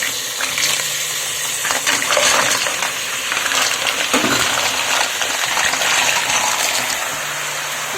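Mussels in their shells dropped a few at a time into a pot of frying onion, the shells clicking against each other and the pot over a steady sizzle.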